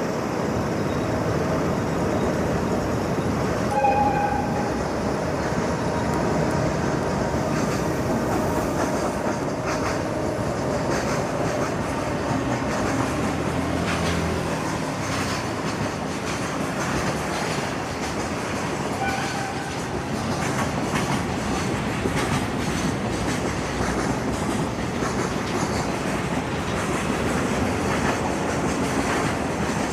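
A long freight train running past, its wagons' wheels clattering steadily over the rail joints. A brief high tone sounds about four seconds in.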